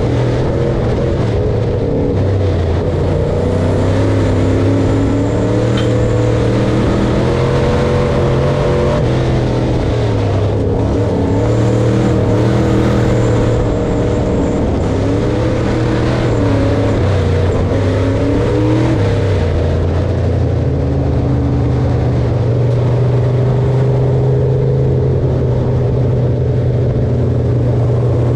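Large engine of corn-harvest machinery running steadily under load, its pitch dipping and rising slightly now and then.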